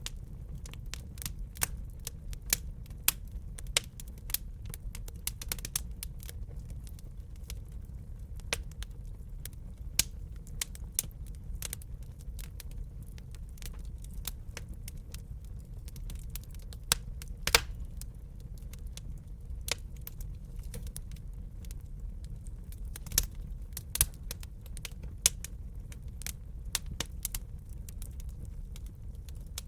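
Wood fire crackling in a fireplace: irregular sharp pops and snaps from the burning logs over a steady low rumble, with a few louder pops.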